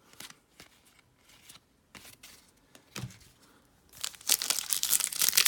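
A few faint clicks of cards being handled, then from about four seconds in a trading-card pack's foil wrapper being torn open and crinkled, loud and crackly.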